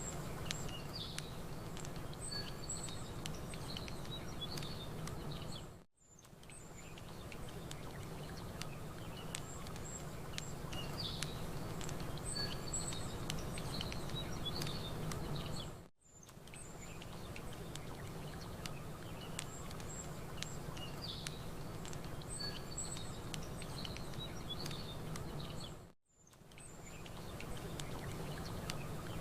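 Campfire crackling, with a steady low rush of water and small birds chirping. The same ten-second stretch repeats, dipping to near silence for a moment three times, about every ten seconds.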